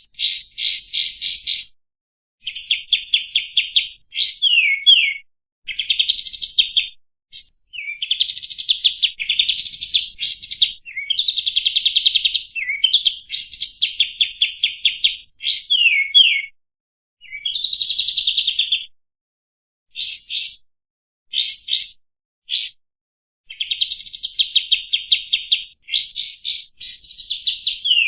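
Kapas tembak bird singing its chattering masteran song: a string of rapid, high-pitched trills and quick downward slurred notes, in phrases broken by short pauses.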